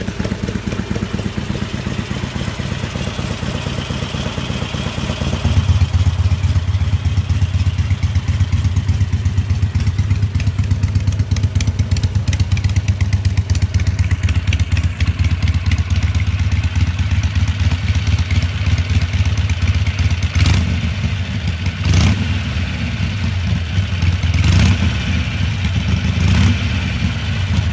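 Harley-Davidson Sportster 883 air-cooled V-twin idling through a Jekill & Hyde valve exhaust being switched to open. About five seconds in, the exhaust note steps up, louder and deeper. A few short throttle blips come near the end.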